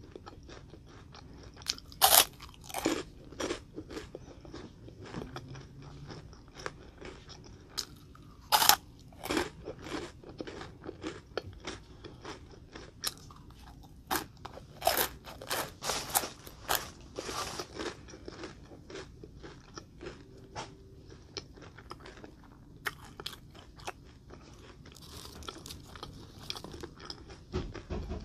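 Close-miked crunching and chewing of a crisp puffed corn-rice snack cone filled with green cream: a few sharp, loud bites, loudest about two seconds in and again about eight seconds in, with a run of crunches in the middle and softer chewing between them.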